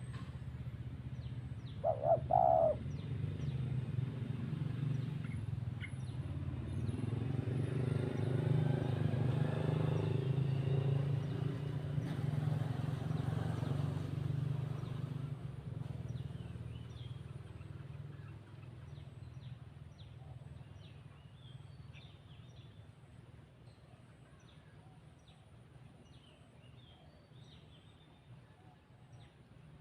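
Small birds chirping, with a brief louder call about two seconds in, over a low rumble that swells and then fades away past the middle.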